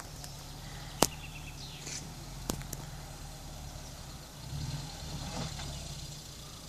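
Off-road 4x4's engine running low and steady out of sight, swelling briefly in the middle as it climbs a rock slope. Two sharp clicks cut through it, the louder about a second in.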